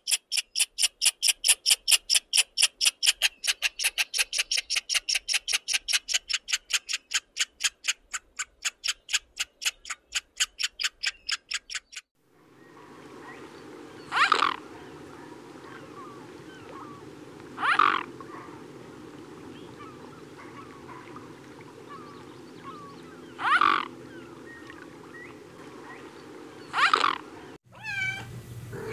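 A three-striped palm squirrel gives a fast series of high chirps, about three a second, fading toward the end. After a pause come four short swan calls a few seconds apart over a steady low background noise.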